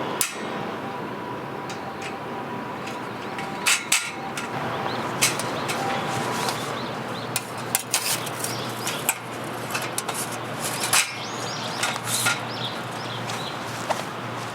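Steady rain hiss with scattered sharp knocks and clinks of camping gear being handled, a dozen or more at irregular intervals.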